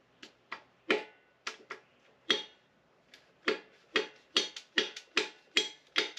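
A run of well over a dozen sharp taps, spaced at first and then quicker, about five a second, in the second half: a piston being knocked up and out of a small-block Chevy 350 cylinder bore. It is being forced against a bad ring ridge at the top of the bore.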